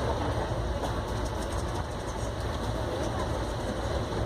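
Steady running noise of a moving passenger train heard from inside the coach: a low rumble with faint light rattles.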